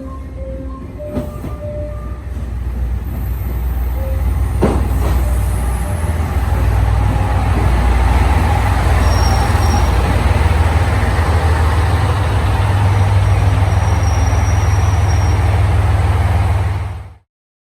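Train running through a station, its loud steady rumble building over the first six seconds and holding, with a brief squeal about five seconds in; the sound cuts off suddenly near the end.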